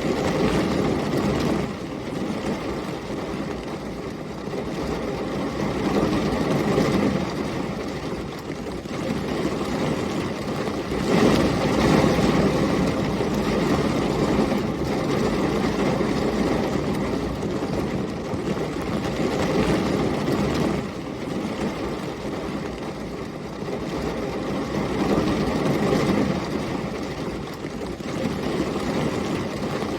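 Heavy rain and storm wind: a dense, steady rush with a low rumble that swells and eases every few seconds.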